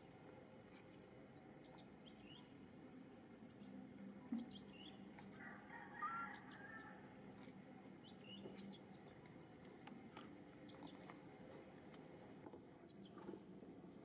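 Faint outdoor ambience: scattered short, high bird chirps over a steady low hum, with a brief flurry of chirping about halfway through.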